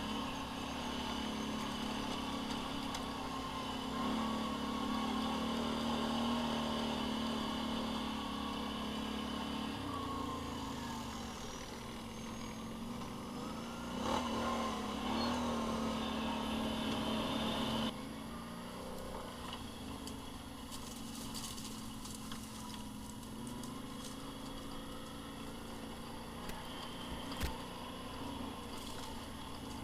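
Engine of an off-road ride vehicle running, its pitch rising and falling with the throttle. The sound drops suddenly to a quieter, lower running note about two-thirds of the way through.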